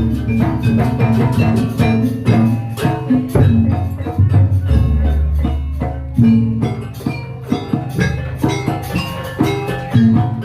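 Jaranan gamelan music: fast, even strikes on metallophones and drums over deep, ringing gong strokes, one coming in a little before five seconds.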